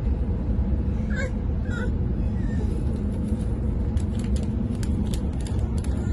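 Passenger train running: a steady low rumble, with two short high chirps about a second in and a run of light clicks and rattles from about four seconds.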